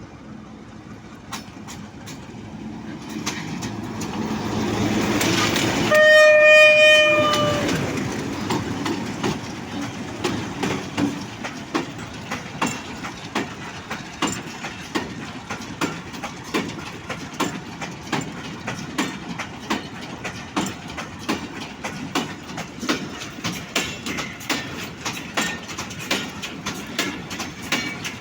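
Diesel goods train passing: the locomotive's engine grows louder as it approaches, then it gives one horn blast of about a second and a half. A long string of freight wagons follows, rolling by with a steady clickety-clack of wheels over rail joints, about two clacks a second.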